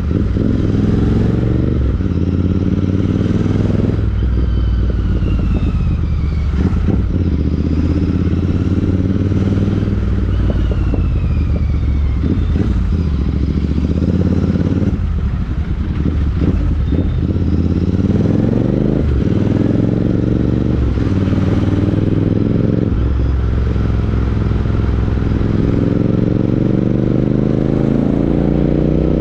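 Royal Enfield Interceptor 650's parallel-twin engine through a Chris Michael aftermarket exhaust, riding along. The note rises in pitch as the bike accelerates and falls back as it slows, with some brief crackling around the middle and a climb near the end.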